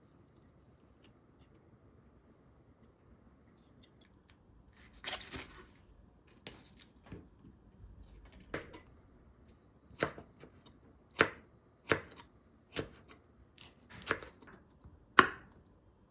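Knife chopping food on a cutting board: after a few quiet seconds, around ten single sharp strokes at an uneven pace of about one a second.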